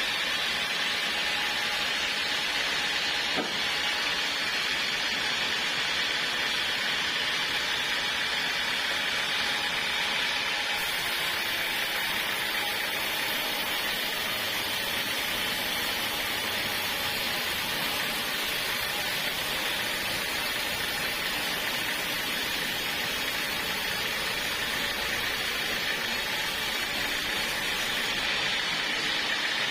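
Portable sawmill's band saw running through a log: a steady, even hissing noise, with one brief click about three and a half seconds in.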